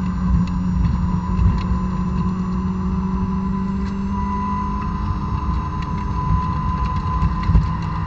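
2006 Honda S2000's 2.2-litre four-cylinder engine, stock exhaust, heard from inside the cabin running hard at mid-to-high revs through a corner. The note sags slightly and then climbs again near the end as the car accelerates out.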